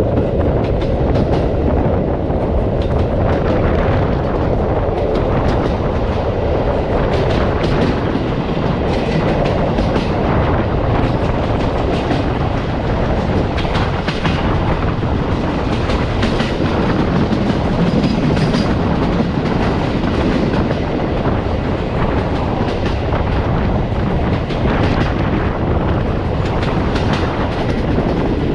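Passenger train coaches running at speed, heard from aboard: a steady rumble of the wheels on the rails with frequent irregular clicking and knocking as the wheels pass over rail joints and track fittings.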